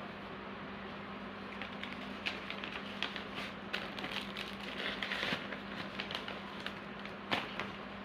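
Small bird leg rings being handled and packed by hand: irregular light clicks and rattles, with a short rustle of packaging about five seconds in and a sharper click near the end. A steady low hum runs underneath.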